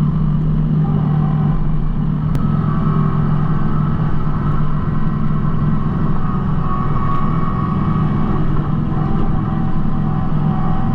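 Kubota B2650 compact tractor's diesel engine running steadily at working speed, with a fainter steady whine over it. A single sharp click sounds about two seconds in.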